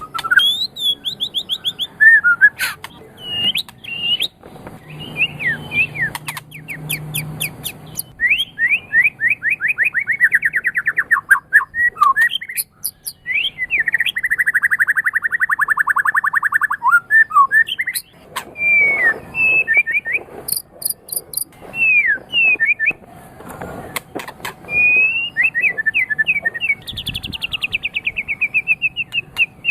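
White-rumped shama (murai batu) singing continuously: long, rapid trills of repeated notes, each run lasting a few seconds, broken up by short rising and falling whistled phrases and sharp chips.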